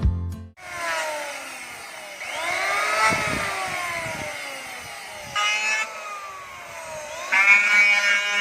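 Small handheld electric power tool run in short trigger pulls: the motor whine comes up loud, then slides slowly down in pitch as it coasts, three or four times. It is cut off sharply at the end.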